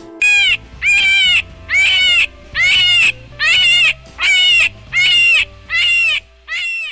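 An animal calling eight times in a steady series, about one call a second, each call short and rising then falling in pitch, over faint background music.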